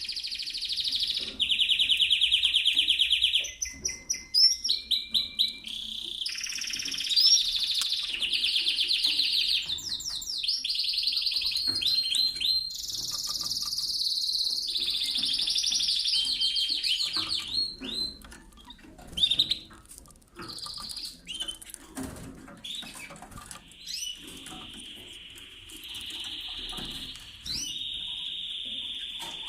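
Domestic canary singing: long rolling trills and fast repeated notes, switching from one phrase to the next every few seconds. The song breaks off about two-thirds of the way through, leaving short scattered clicks, and picks up again with steady trills near the end.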